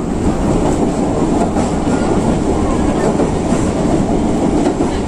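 Passenger train running along the line, heard from inside the carriage: a steady, loud noise of wheels on rails, strongest low down.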